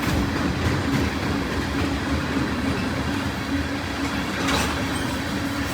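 Norfolk Southern manifest freight train's last cars rolling over the crossing, a steady rumble of steel wheels on the rails.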